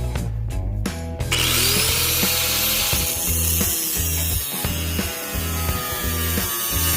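Background music with a harsh, rasping scraping noise from tool work laid over it, starting about a second in and stopping at the end.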